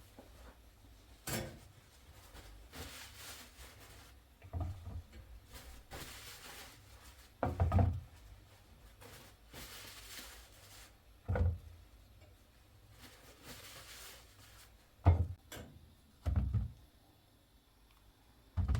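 Household handling noises: a series of short knocks and thuds, about seven of them a few seconds apart, with soft rustling or hissing in between.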